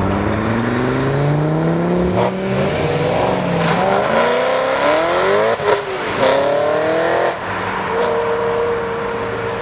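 Supercharged BMW M3 E90's V8 through an Akrapovič exhaust, accelerating hard through the gears. The note rises in long sweeps and drops back at each shift, with a few sharp cracks. Near the end it settles into a steady note.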